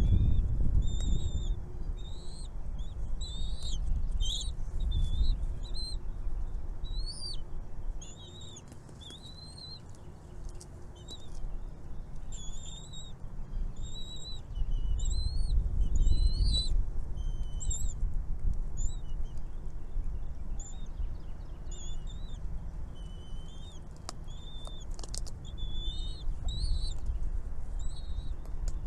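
Baby songbirds in the nest calling with a continuous run of short, high chirps, several a second, as they beg for food. A low rumble on the microphone runs underneath and is loudest in the first few seconds and again around the middle.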